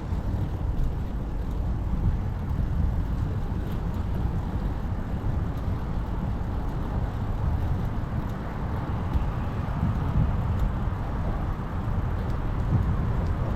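Steady low rumble of wind buffeting the microphone and road noise while riding a bicycle.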